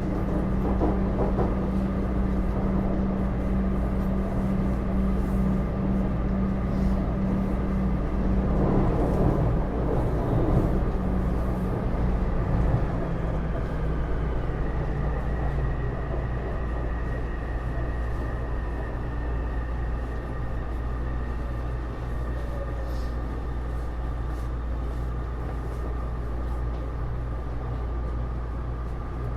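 Taipei Metro C301 metro car running between stations, with steady wheel and rail rumble and the whine of its Bombardier IGBT-VVVF traction inverter. Partway through, the inverter tones change and some slide down in pitch as the train eases off.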